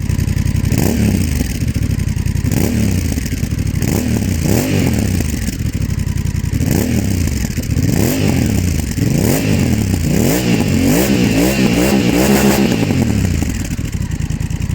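Honda CMX1100 Rebel's parallel-twin engine revved again and again through a GPR aftermarket exhaust. The pitch climbs and drops with each blip, and the blips come faster in the second half.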